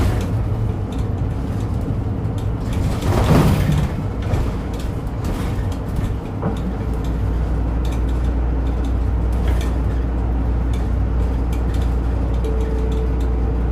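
Route bus engine running, heard from inside the passenger cabin, with a short hiss of air about three seconds in; the low engine note changes about six seconds in and then holds steady.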